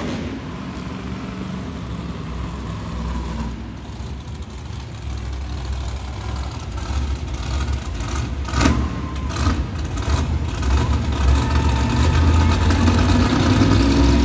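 Monster truck engine running hard and revving, its rumble building toward the end, with a few sharp cracks about eight and a half seconds in.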